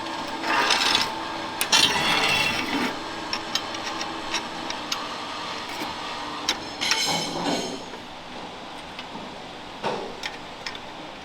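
Steel plate tabs being worked into their slots in the armour plate: metal scraping in stretches of about a second, three times, with several short knocks of light tapping between.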